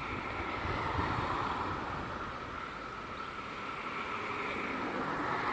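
Chorus of Brood X periodical cicadas singing in the trees, a steady high drone that swells about a second in and again near the end, with a low rumble underneath.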